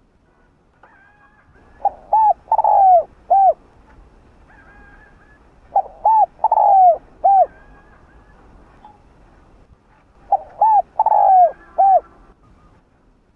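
Spotted dove cooing: three song phrases about four seconds apart, each of two short coos, a longer falling coo and a final short coo. Fainter, higher bird chirps come between the phrases.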